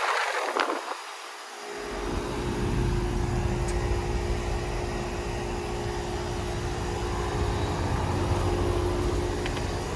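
York central air conditioner condenser unit running: its fan blowing air steadily over a constant hum with a steady mid-pitched tone. The sound fills out about two seconds in and then holds even.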